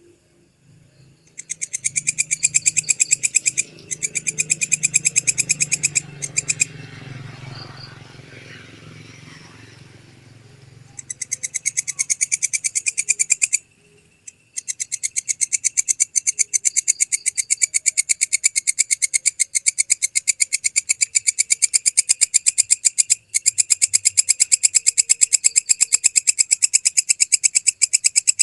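Walang kecek katydid calling in long trains of rapid, evenly spaced high-pitched pulses. The trains break off a few times in the first half, then run on without a break.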